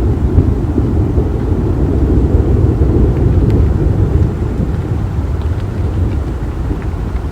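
Thunderstorm recording: a deep, continuous rumble with a few faint raindrop ticks, easing slightly over the last few seconds.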